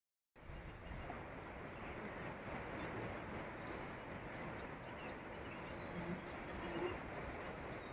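Small birds chirping in a forest, with short, quick, high calls in a run of several about two to three seconds in and scattered calls after, over a steady faint hiss of outdoor ambience.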